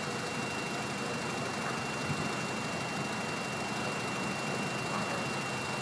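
Acura Integra RS four-cylinder engine idling steadily with the hood open, with a thin steady high whine above it.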